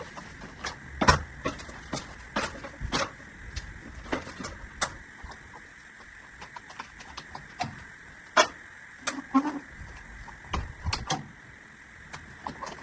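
Irregular clicks and knocks from plastic drain pipework and fittings being handled and worked on, the loudest knocks about a second in and about eight seconds in, over a steady faint hiss.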